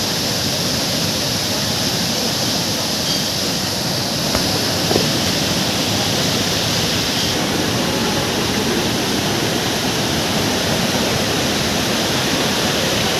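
Waterfall in monsoon flood: a loud, steady rush of heavily falling water.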